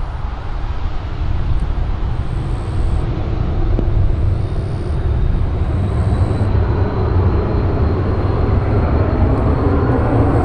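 Twin-jet engine noise of a Cessna Citation business jet, a low rumble that grows steadily louder with a faint thin high whine over it.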